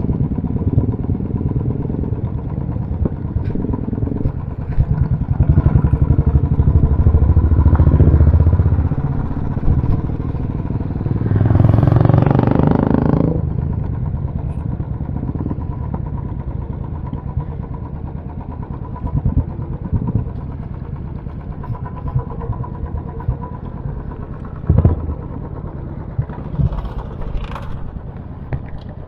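Royal Enfield motorcycle engines running, growing louder for a few seconds about five seconds in and swelling again about twelve seconds in as bikes rev or pass. A sharp knock about twenty-five seconds in.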